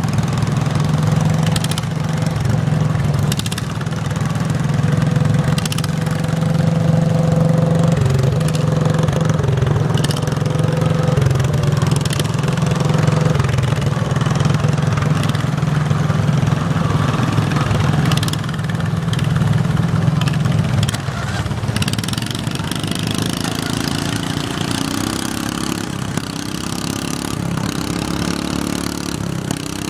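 Garden tractor engine running at a steady, loud pace. About 21 seconds in its note falls away, and an engine note rises in steps toward the end. A few sharp clicks or knocks are scattered through.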